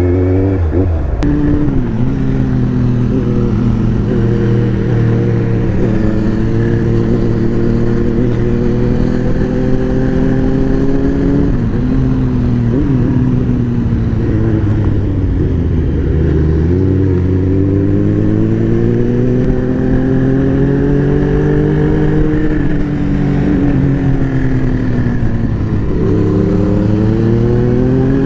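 Superbike engine running under way, its pitch climbing slowly and dropping back several times as the rider accelerates, shifts and eases off.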